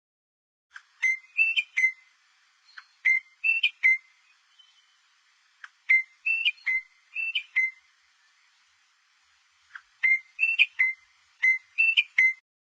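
A songbird's whistled song: four short phrases of quick, clear notes, each phrase a few seconds apart with silence between.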